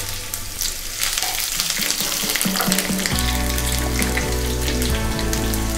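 Onion, garlic and freshly added green chilies sizzling in hot oil in a frying pan, with sharp crackles that grow denser about a second in. A wooden spoon stirs them, and background music comes in underneath about three seconds in.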